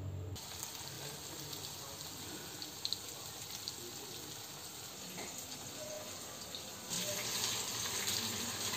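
Masala-coated soya chunks frying in hot oil in a pan: a steady hissing sizzle with a few faint crackles, growing louder about seven seconds in.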